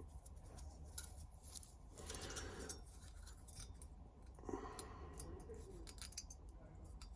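Faint metallic scraping and small clicks of a steel feeler gauge blade, 11 thou, sliding in the end gap of a two-stroke chainsaw piston's compression ring and dragging with a bit of resistance, the sign of a snug fit. Two short scrapes stand out, about two seconds in and again about four and a half seconds in.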